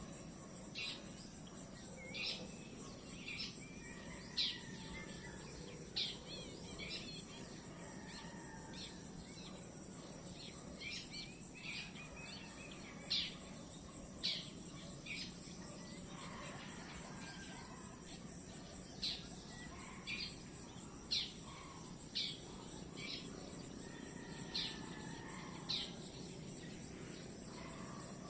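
A steady, high-pitched chorus of insects, like crickets, runs throughout. Short, sharp bird chirps sound over it every second or two.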